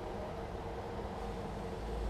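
Portable gas camp stove burner running on full flame under a pot of melting lead: a steady rushing hiss, with a low rumble underneath.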